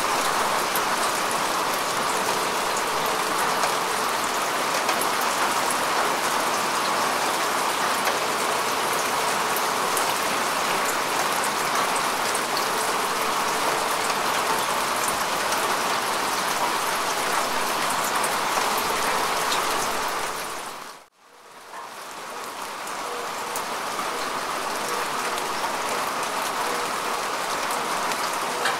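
Steady rain falling on grass and bare earth: a dense, even patter with fine individual drop ticks. About three-quarters of the way through, it dips suddenly to near silence and swells back up over a couple of seconds.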